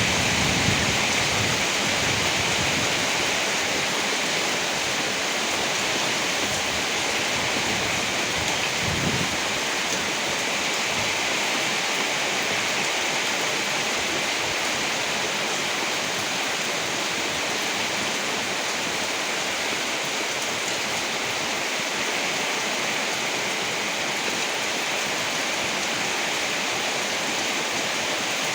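Steady heavy rain, a dense even hiss. The low rumble of thunder fades out in the first couple of seconds, and a faint low swell comes about nine seconds in.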